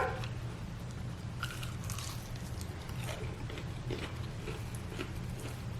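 Crispy fried chicken being bitten and chewed: scattered faint crunches and mouth sounds, with a steady low hum underneath.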